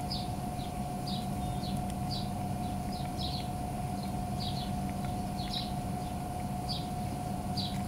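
Small bird chirping: short, high notes repeated about twice a second, over a steady low hum and a faint constant whine.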